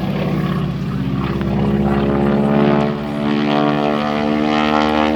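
Propeller aircraft engine running loud and steady, its pitch climbing a little in the first couple of seconds and then holding.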